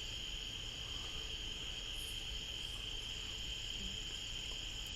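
Steady chorus of crickets and other night insects: a continuous high-pitched trill that does not let up.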